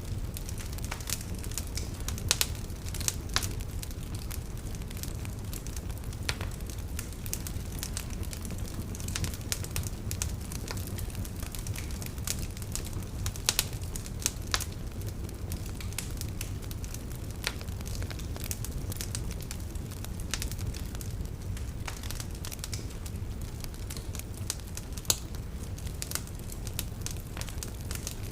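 Open fire crackling: an irregular run of sharp snaps and pops, a few much louder than the rest, over a steady low rumble.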